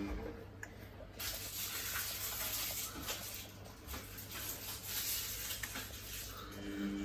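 Samsung WF1700WRW washing machine mid-wash: the motor whine stops, and about a second in a steady hiss of water starts up. The motor whine returns near the end.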